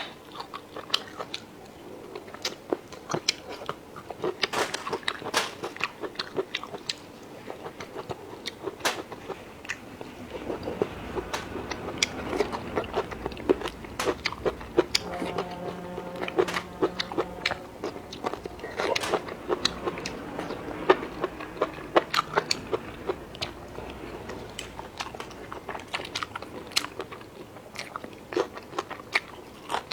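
Close-miked chewing and biting, with irregular crisp crunches and wet mouth sounds from a person eating.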